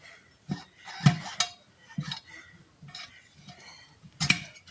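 Metal hand tools clanking and clinking against a steel wheel rim in a series of sharp, ringing knocks, the loudest about a second in and another near the end, as a tire bead corroded onto the rim is worked loose.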